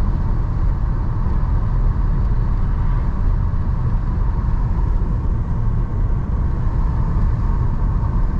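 Steady low rumble of a car's engine and tyres at road speed, heard from inside the cabin.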